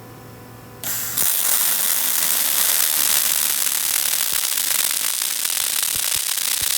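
A machine hums steadily, then about a second in a welding arc strikes and runs as a loud, steady crackling hiss.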